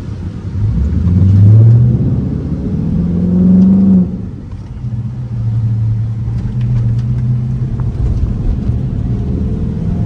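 Car engine accelerating hard: its pitch climbs, drops at a gear change, climbs again and cuts off suddenly about four seconds in, then runs on at a steady lower note while cruising.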